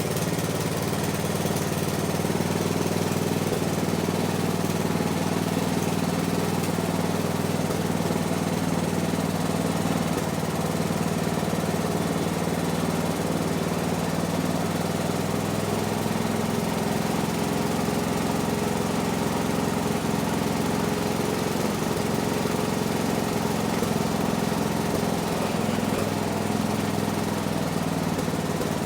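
The 12 hp Tecumseh engine of a 1970s Massey Ferguson MF-12 garden tractor running steadily after being started, its speed shifting slightly a couple of times. This is the engine running again with a replacement cylinder head fitted in place of a cracked one.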